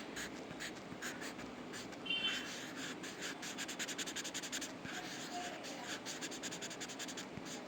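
Drawing strokes on paper: many quick, short scratching strokes in a steady run, coming fastest in the second half.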